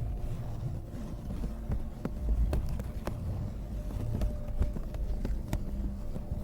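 Close-microphone ASMR trigger handling: a low rubbing rumble with scattered sharp clicks and ticks.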